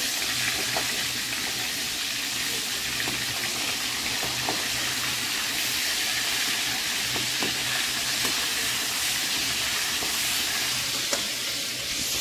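Fish pieces frying in oil in an aluminium kadai: a steady sizzle, with a few faint clicks of a metal slotted spoon moving them.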